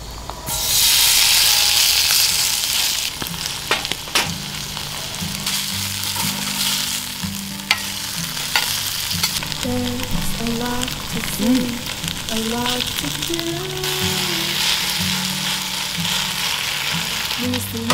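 Battered zucchini slices (애호박전) sizzling in hot oil in a square pan on a portable gas stove. The sizzle jumps up loud as they go in about half a second in, then settles to a steady hiss, with a few sharp clicks from the spatula.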